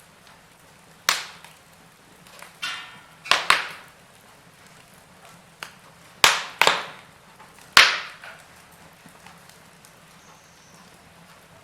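Wood fire burning in a fireplace, crackling with a handful of sharp, loud pops and a brief hiss between them.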